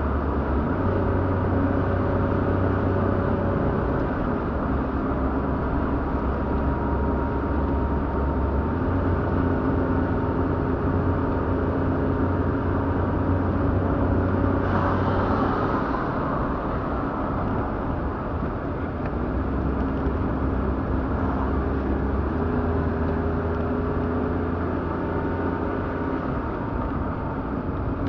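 A car running, with a steady drone of engine and road noise whose pitch shifts a little now and then. A brief rush of noise comes about fifteen seconds in.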